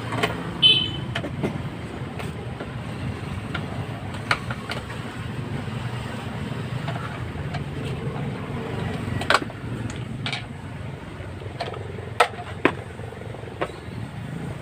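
Scattered light clicks and knocks of electric-fan parts being handled and worked on by hand, over a steady low background rumble. One brief ringing squeak comes near the start.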